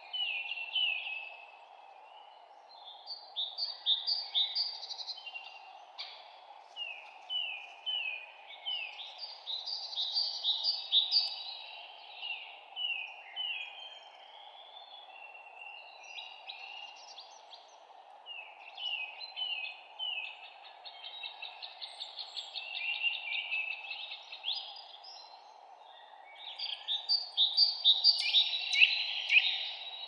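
Songbirds chirping in a spring forest: runs of quick, falling chirps in bursts a few seconds apart, over a steady low background hiss.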